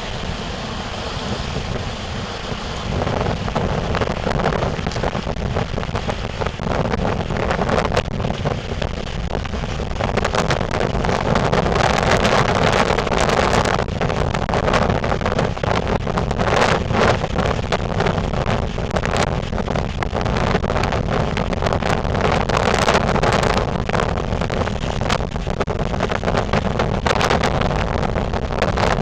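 Strong gusting wind buffeting the microphone over the rumble of heavy surf, as a hurricane approaches. The wind gets louder and rougher about ten seconds in.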